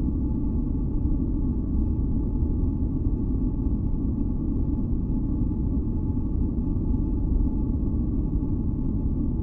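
Steady, deep rumbling noise from a relaxation noise track, weighted to the low end like brown noise. A few faint steady tones hum above it. It does not change at all.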